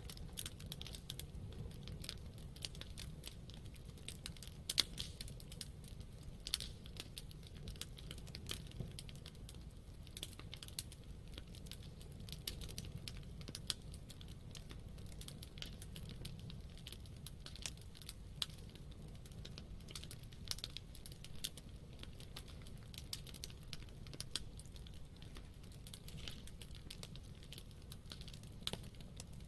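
Campfire of burning wood crackling, with frequent irregular sharp pops and snaps over a low steady rumble of the flames.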